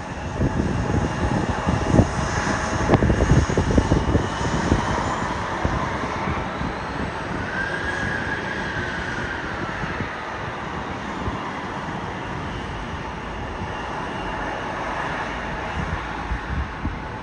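Airplane engine noise as an aircraft passes: a loud rush with a rumbling low end in the first few seconds, then a whine that falls in pitch around the middle.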